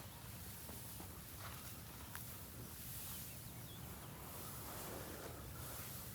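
Faint open-air ambience with a few brief, faint bird chirps and an occasional light click.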